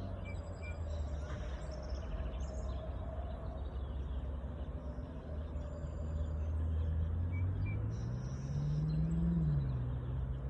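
Stream water flowing steadily, with a low engine drone from passing traffic that rises in pitch and grows louder about seven seconds in, and faint bird chirps.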